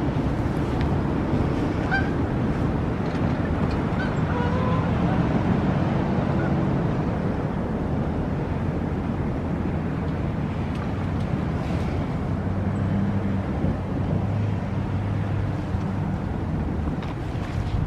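A train going by, its engine and wheels making a steady low noise, with wind buffeting the microphone.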